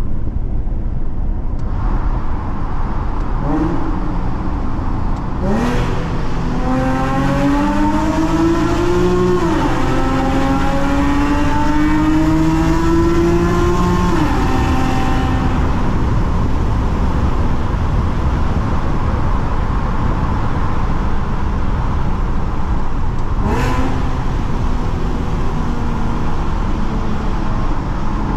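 Nissan Skyline coupe's V6 (VQ37VHR) through an aftermarket full exhaust with a sports catalyst and SACLAM muffler, accelerating hard: the exhaust note climbs in pitch, drops at an upshift about nine seconds in, climbs again, then falls back to a steady cruising drone from about fourteen seconds. Echoing in a tunnel.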